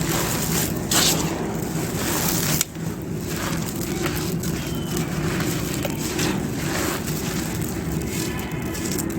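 Fully dry clay pot pieces being crushed and crumbled, a run of irregular crunches and crackles, over a steady low hum.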